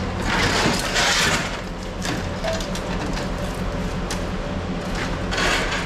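A vehicle engine running steadily, with two loud bursts of rushing noise, one about half a second in and one near the end, and a few light clicks.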